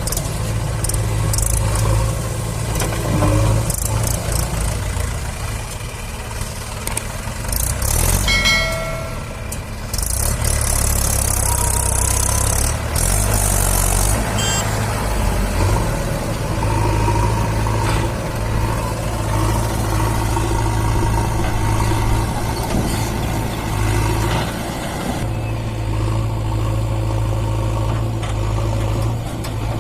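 Mahindra 575 DI tractor's four-cylinder diesel engine running steadily while pulling a loaded trolley, with a brief high-pitched tone about eight seconds in.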